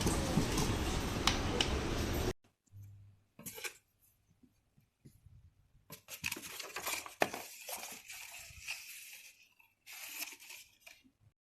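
Objects being handled, with scattered clicks, clinks and rustling. A steady noise before it cuts off suddenly about two seconds in.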